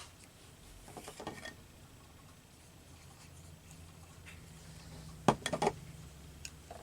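Paper collage pieces being handled and pressed down on a tabletop: soft rustles about a second in, then a sharp tap and a few quick clicks a little after five seconds.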